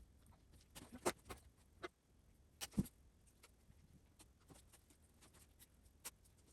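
Plastic rattan strand being threaded and pulled through a chair's woven cane seat: faint, scattered clicks and scrapes, with a cluster about a second in and the loudest knock near the three-second mark.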